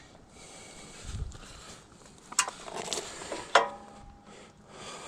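Quiet handling noise with a dull thud about a second in, then two sharp clinks, the second with a brief metallic ring.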